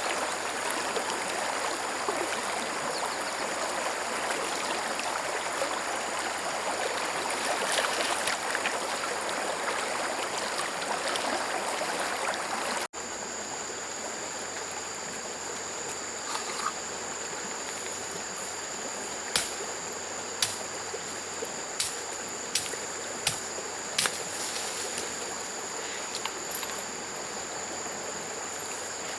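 A stream running steadily for the first half. After a sudden cut, a high steady drone of insects with a string of sharp knocks, roughly one a second, in the latter part.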